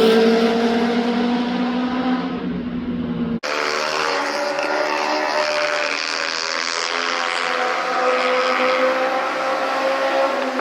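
Ducati Panigale V4's V4 engine running at steady revs, then a sudden cut about three and a half seconds in to another stretch where the engine note climbs slowly as it gathers speed.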